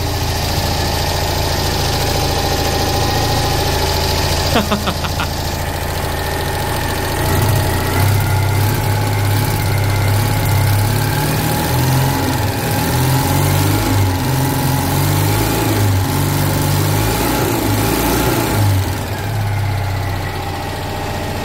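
Citroen 2CV's 602cc air-cooled flat-twin engine running soon after a cold start from eight months' standing. It runs steadily at first, with a brief rattle of clicks, then from about seven seconds in its speed rises and falls unevenly, before settling again near the end.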